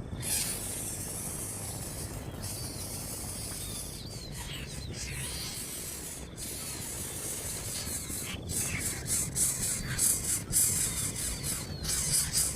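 Steady hiss with a few faint, short bird chirps, turning in the second half into a louder, rapidly pulsing high hiss.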